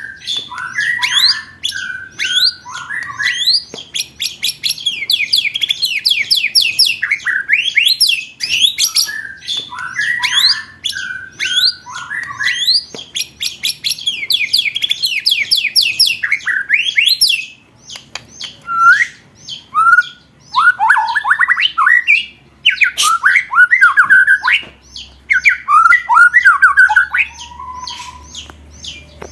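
Songbird singing rapid rolling trills of quick rising notes, broken by harsher, lower chattering calls, with a few short pauses in the second half.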